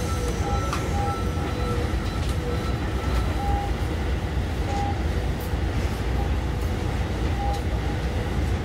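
Hankyu 9000 series electric train with a Toshiba IGBT VVVF inverter, heard from inside the car: a steady low rumble of the running train, with short faint tones now and then.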